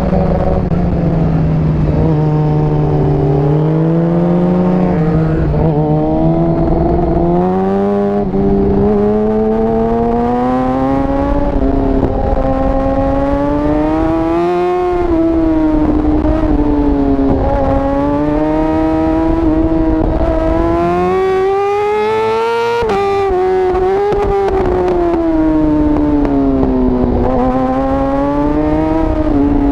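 Yamaha R6 inline-four sport-bike engine at full throttle on track, heard onboard. Its note climbs under acceleration and falls off again several times, with a sudden jump in pitch about two-thirds of the way through.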